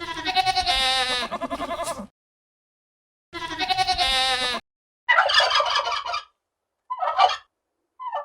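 Sheep bleating twice in long, wavering calls, then a turkey gobbling in three short rattling bursts.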